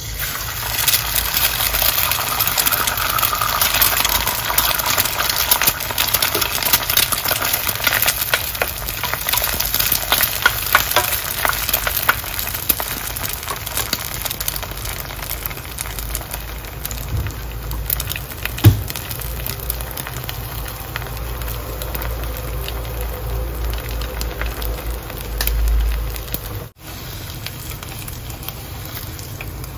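Food sizzling and crackling as it fries in a pan, with one sharp knock a little past halfway through.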